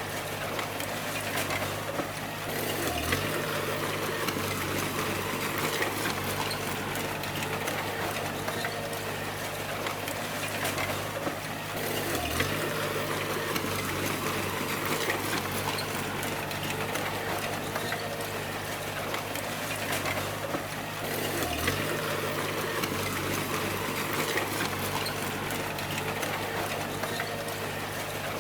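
Bulldozer diesel engine running steadily with clattering and hissing noise over it. The engine note dips briefly three times, about nine seconds apart.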